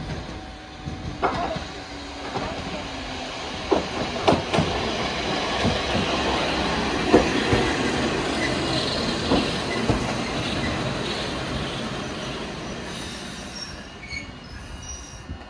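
Eizan Electric Railway 700 series railcar running into the station and braking to a stop. It grows louder as it passes close, with sharp clacks of the wheels over rail joints and a high wheel and brake squeal at its loudest, then dies down as it halts.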